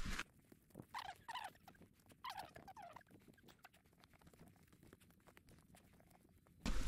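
Faint bird calls: four short notes falling in pitch, in two pairs about a second apart, over light scattered ticking.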